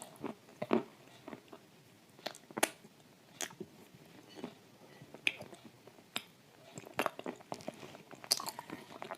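Close-up chewing and crunching of dry shortbread cookies coated in thick clay paste, with irregular sharp crunches and wet mouth clicks.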